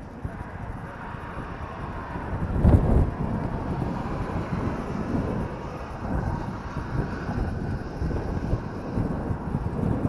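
Suzuki LS650 Savage's single-cylinder engine running while the motorcycle is ridden, with wind buffeting the action camera's microphone. A louder surge comes about three seconds in.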